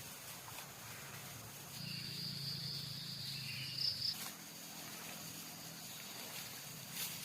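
An insect, such as a cricket, calling in the forest: one steady high-pitched trill lasting about two seconds, starting near two seconds in and cutting off suddenly. Under it is a faint steady background hiss.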